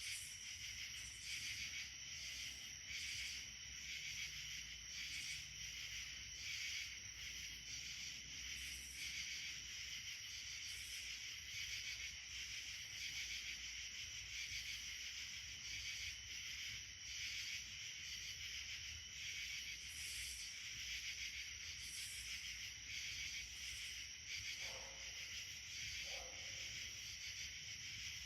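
Steady, high-pitched chorus of summer insects, a continuous shrill buzzing trill. Two brief lower sounds come about a second apart near the end.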